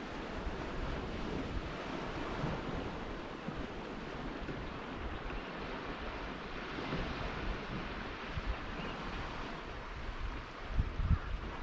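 Ocean surf washing on the shore in a steady, continuous wash, with wind buffeting the microphone in a few low thumps near the end.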